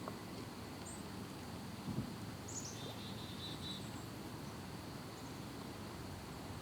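Scattered faint, high bird calls: a few short chirps and a brief quick run of repeated notes. There is a soft low knock about two seconds in.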